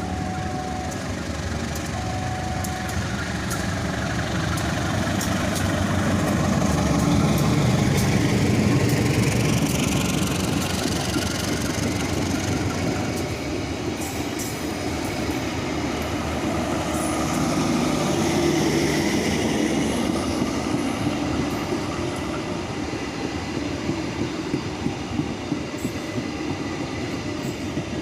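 Passenger train running past on the rails: a continuous rumble of wheels and cars that swells twice. Near the end come repeated sharp clicks of wheels over rail joints.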